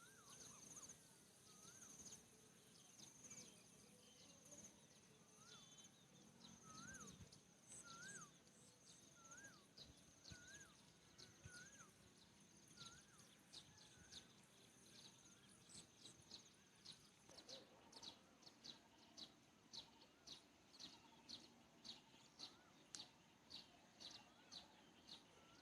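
Faint rural ambience of birds and insects: a bird repeats a short rising-then-falling note about once a second, over an insect's steady high pulsing trill. From about two-thirds of the way in, a run of sharp high chirps comes about twice a second.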